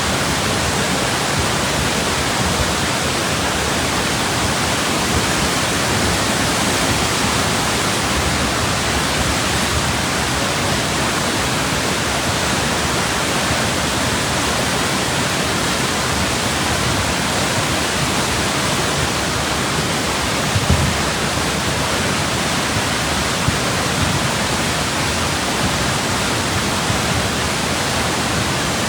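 Floodwater rushing in a steady, loud wash of noise, with one brief low thump about two-thirds of the way through.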